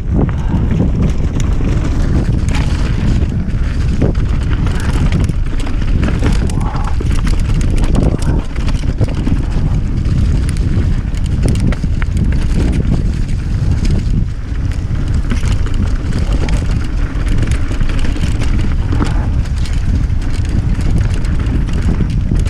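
Steady wind rush buffeting the microphone, a loud low rumble with scattered short knocks throughout.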